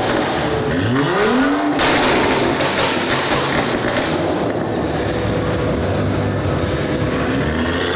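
A car engine revs up and drops back about a second in, followed by steady engine running.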